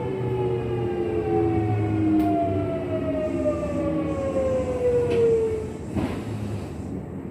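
Kintetsu 1233 series electric train (set VE46, known for an unusual running noise) slowing down: its traction motor whine falls steadily in pitch under braking and dies away about six seconds in, followed by a single knock.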